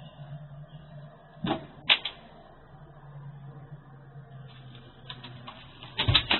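Several sharp knocks or clacks: one about a second and a half in, two close together soon after, and a quick cluster near the end. Under them runs a steady low hum, heard through a low-quality security camera microphone.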